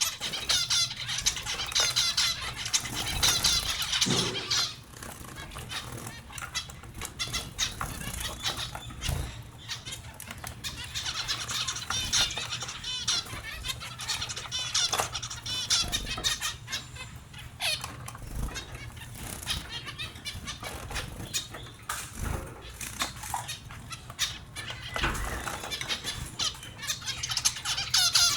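Small pet finches twittering in fast, repeated high chirps that come and go in clusters, mixed with many short clicks and bouts of wing flapping.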